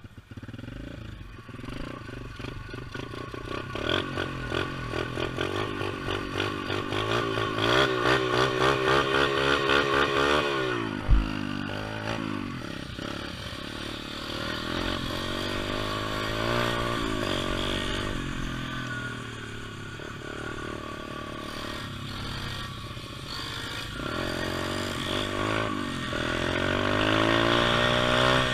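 Pit bike engine revving up and down as it is ridden, its pitch rising and falling over and over and loudest about eight to ten seconds in. A single sharp thump comes about eleven seconds in.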